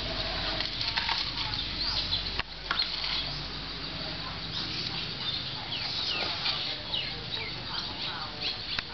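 Birds chirping: many short, high calls, each falling in pitch, repeated throughout over a steady low background.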